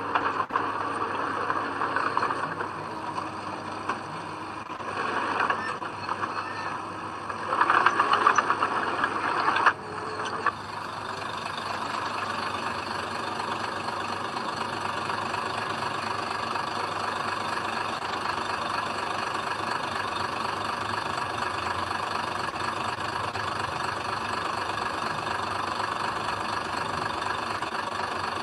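Heavy diesel engine of earthmoving machinery running. It swells in louder surges over the first ten seconds or so, then abruptly gives way to a steady, even engine sound.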